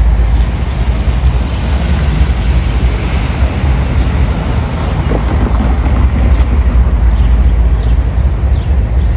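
A train passing close by: a loud, steady rumble with a rushing noise over it, with wind on the microphone.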